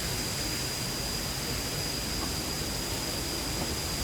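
Steady rushing of a waterfall, with a thin, high-pitched steady tone over it.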